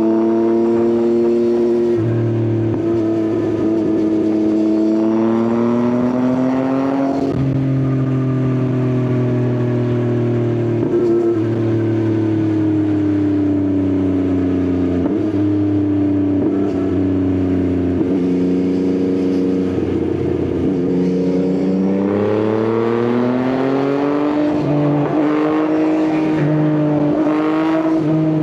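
Yamaha XSR900's inline-three engine running through an Akrapovič exhaust while riding. The revs climb about five seconds in and drop off sharply at about seven seconds, then ease down over a long stretch, and climb again in the last few seconds.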